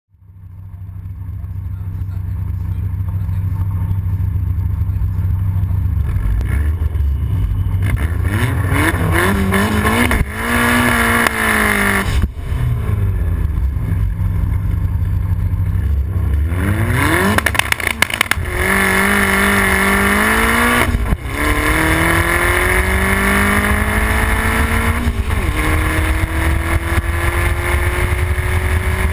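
Turbocharged Opel C20LET 2.0-litre 16-valve four-cylinder in a Citroën 2CV, heard from on board: idling, then revved up at the start line and launched, pulling up through the gears with the pitch rising in each gear and dropping sharply at the shifts, about three of them in the last ten seconds.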